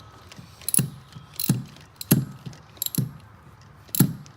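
A hand ratchet with a 10 mm socket tightening an ignition coil hold-down bolt: a handful of separate ratchet clicks, each with a dull knock, coming irregularly about every half second to second.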